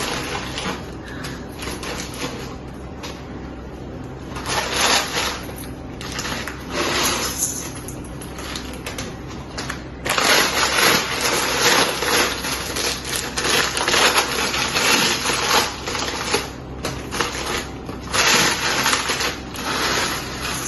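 Dry chatpate ingredients, puffed rice and crushed instant noodles, being crunched and tossed together in a bowl. The crunching and rattling comes in irregular bursts and grows heavier about halfway through.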